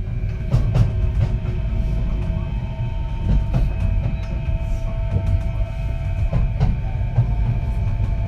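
Kintetsu 3220 series electric train running: a steady low rumble of wheels on rail, with the steady whine of its Hitachi IGBT inverter-driven traction motors and a few irregular clicks from the track.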